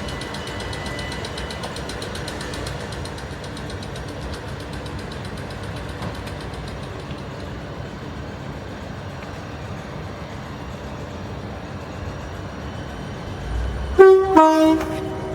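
Train rumbling steadily, then a two-tone train horn near the end: a short higher note followed straight away by a slightly longer lower one.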